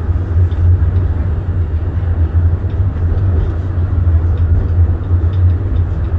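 Tram in motion heard from on board: a steady low rumble with faint small rattles above it.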